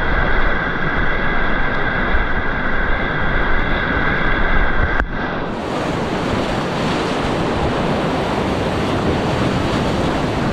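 Whitewater rushing, with wind buffeting the microphone. A sharp click about five seconds in, after which the rushing sounds brighter and fuller.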